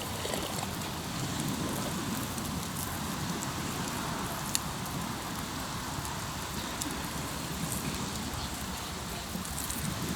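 Hardwood campfire crackling, with scattered sharp pops, the clearest about halfway through. Behind it is a steady rushing wash of waves on the shore.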